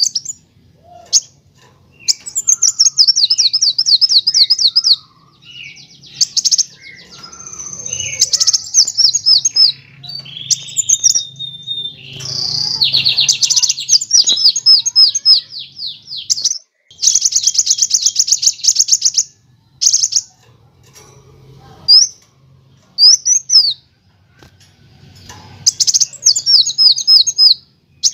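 Kolibri wulung (a sunbird) singing: bursts of very fast, high trills and chattering phrases a few seconds long, with short pauses between them.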